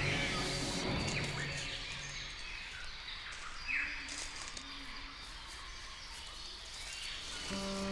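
Rainforest background with a few short, falling bird chirps in the middle. A low drone is heard in the first couple of seconds, and steady music tones come in near the end.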